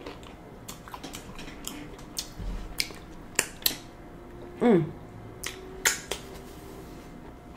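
Close-up eating sounds: chewing with scattered sharp, wet lip-smacking clicks, and a short hummed "mm" with a falling pitch about two-thirds of the way in.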